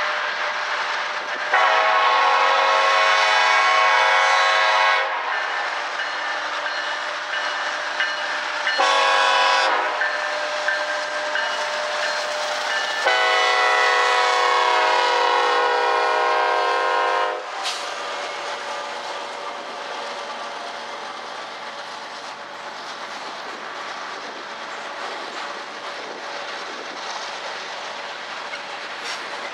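A freight train's locomotive air horn sounds three blasts, long, short and long, as the train approaches and the locomotives pass. After the last blast, the loaded train of covered hopper cars rolls past, with steady wheel and rail noise.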